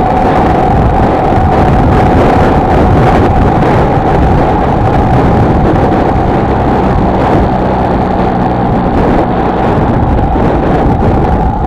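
Honda XLR125R's single-cylinder four-stroke engine running at a steady pace while the motorcycle is ridden, mixed with wind rushing over the microphone.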